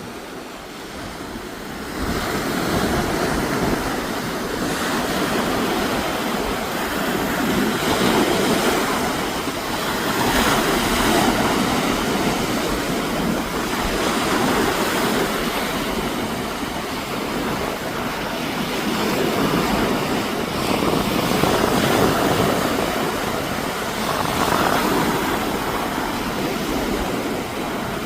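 Storm wind and surf during Hurricane Erin: a steady roar that swells and eases every few seconds, with wind buffeting the microphone. It grows louder about two seconds in.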